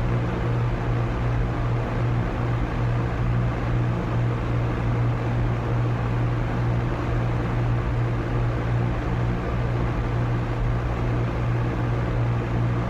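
Electric fan running steadily at high speed: an even rush of air over a low motor hum.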